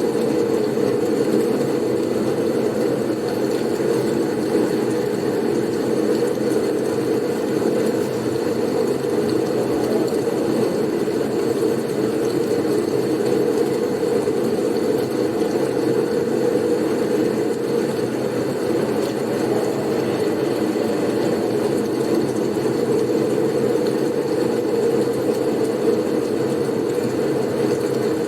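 Blizzard wind blowing steadily: a low, even noise without gusts or changes.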